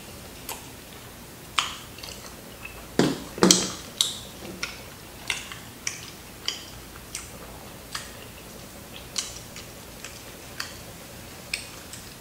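Chewing crispy fried chicken: the crunchy crust cracks in sharp, irregular crackles about once or twice a second, loudest a few seconds in.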